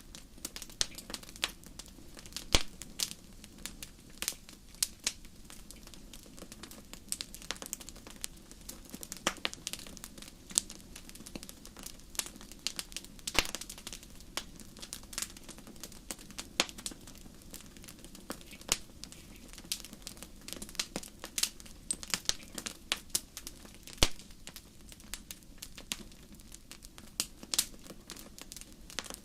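Wood fire crackling in a fireplace: a dense, irregular run of sharp pops and snaps over a low steady rumble of the flames, with a few louder pops, one about two and a half seconds in and another near the end.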